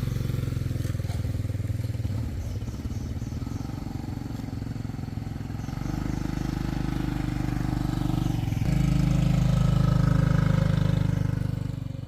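Motorcycle engine running steadily, its note stepping up about six seconds in and again nearer nine seconds as it gets louder, then dropping away at the end.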